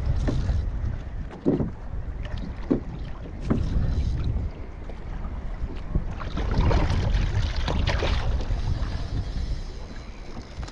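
Wind rumbling on the microphone aboard a fishing kayak, with water noise and a few light knocks in the first few seconds.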